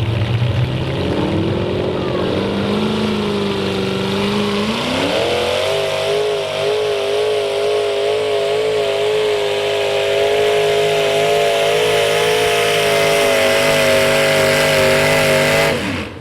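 Twin-engine modified pulling tractor making a pull at full throttle. The engines climb in pitch over the first few seconds, rise sharply about five seconds in and hold a steady high pitch, then shut off suddenly near the end.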